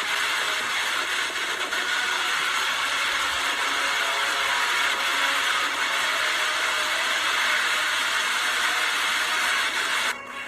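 Strong wind blowing hard, a loud, steady rushing noise that dips briefly near the end.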